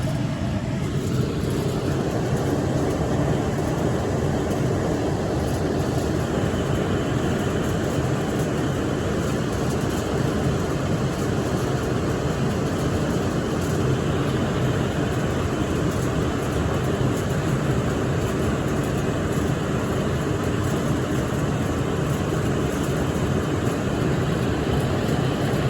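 Amana 90% gas furnace running after being fired back up, its fan giving a steady, unbroken rush of air.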